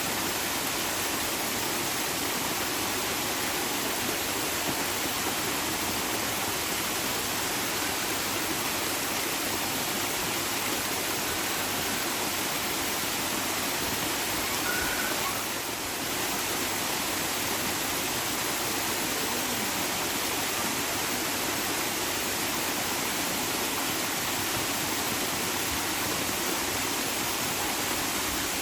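Running water rushing steadily, with a brief slight dip in level about halfway through.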